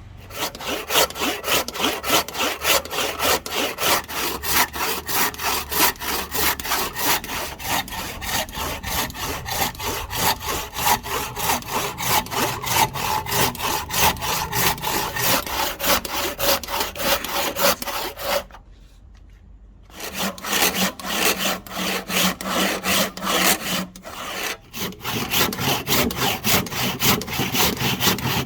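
Hand saw cutting through wood in quick, even back-and-forth strokes. It stops for about a second and a half about two-thirds of the way through, then resumes with a few short breaks.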